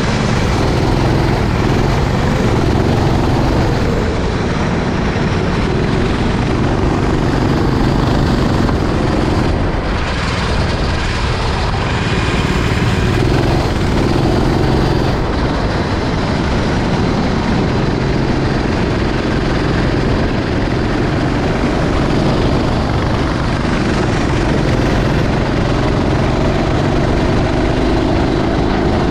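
Racing kart engine at racing speed, its pitch rising and falling as the kart accelerates and slows through the corners.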